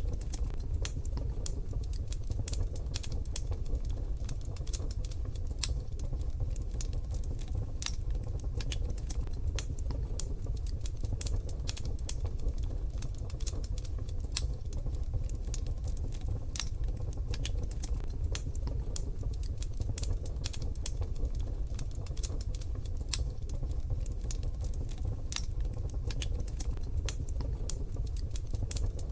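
Wood fire crackling in a wood-burning stove: irregular sharp pops and ticks, scattered unevenly, over a steady low rumble.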